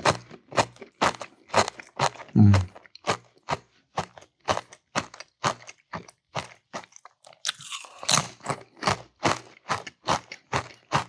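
Cheez-It crackers being chewed close to the microphone: a steady run of crisp crunches, about two to three a second. A brief low sound about two and a half seconds in is the loudest moment.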